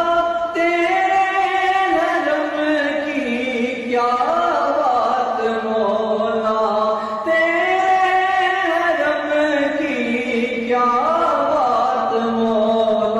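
A man singing a naat, an Urdu devotional song in praise of the Prophet, in long held notes that bend slowly up and down.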